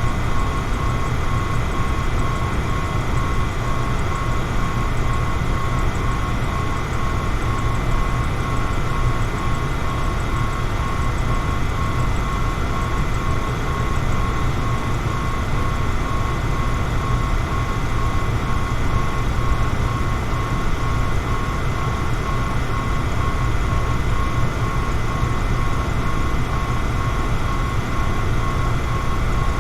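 Electric fan running steadily: a constant rushing noise over a low hum, with a thin, steady whine on top.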